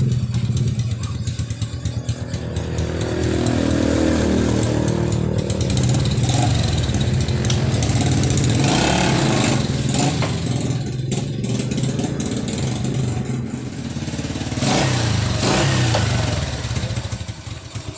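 Bajaj CT100's single-cylinder four-stroke engine running on a road test, its pitch rising and falling as it revs up and shifts through the gears. Near the end it drops to a slow, even idle. The ride checks whether the freshly overhauled gearbox still grinds in second gear.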